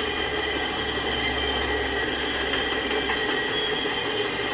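Freight cars rolling past on the rails: a steady rolling rumble and clatter of wheels on track, with faint high steady tones over it.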